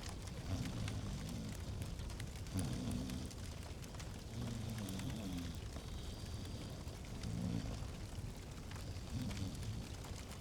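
Fireplace fire crackling with many small pops, under soft low pitched sounds that come every two seconds or so.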